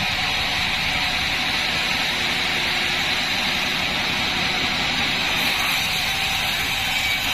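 Band sawmill running steadily, a constant, unbroken machine noise with a low rumble beneath.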